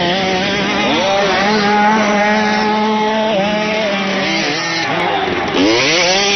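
Motocross bike engines running on the track, their pitch rising and falling as the throttle is worked, with a steep rise in revs about five and a half seconds in.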